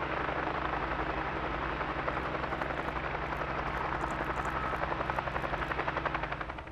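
Helicopter in flight: a rapid, even rotor beat over a steady engine drone.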